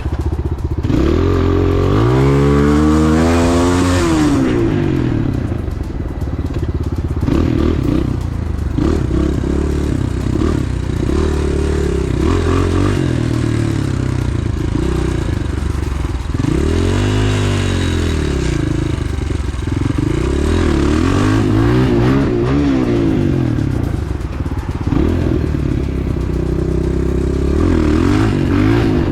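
Pit bike engine revving up and down as it rides a forest enduro trail, the pitch climbing steeply about a second in and rising and falling repeatedly after that.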